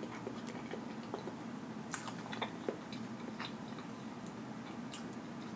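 A person chewing a mouthful of food with the lips closed: quiet, scattered small wet clicks and smacks, with a few sharper ones about two seconds in and near the end.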